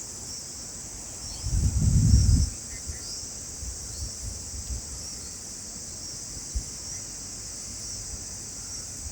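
Steady high-pitched insect chorus, like crickets, with a loud low rumble for about a second, starting about a second and a half in.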